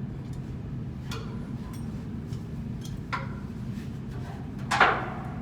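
A few sharp knocks of tools against metal, the last and loudest one ringing briefly, over a steady low machinery hum.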